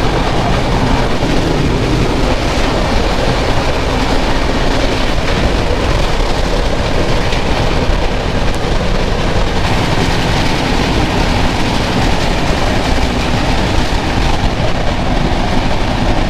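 Rupasi Bangla Express passenger train running on the track, heard from on board: a loud, steady rush of wheel and rail noise.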